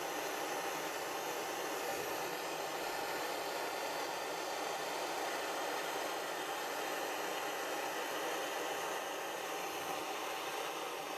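Gas blow lamp flame burning steadily with a constant rushing hiss, heating a joint for silver soldering.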